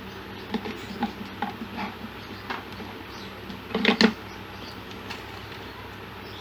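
Scattered light clicks and taps of tools and parts being handled on a workbench, with a louder clatter about four seconds in, over a steady low hum.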